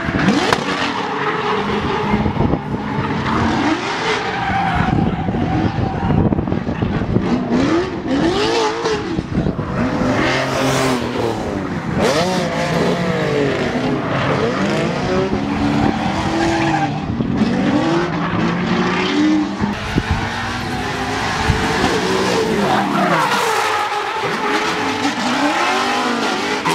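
Drift cars sliding: engines revving up and down hard over continuous tyre squeal and skid noise.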